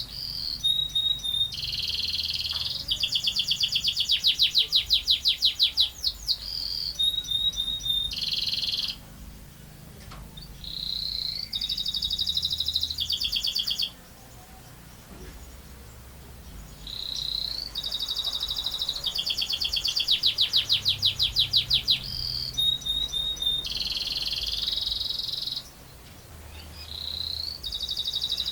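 Domestic canary singing long rolling trills: fast runs of repeated notes and buzzy rolls, in phrases several seconds long with short pauses between them.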